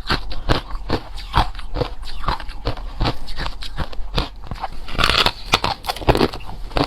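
Hard crushed ice being chewed close to the microphone: a rapid run of sharp, crunchy bites and cracks, several a second, thickening into a denser crunch about five seconds in.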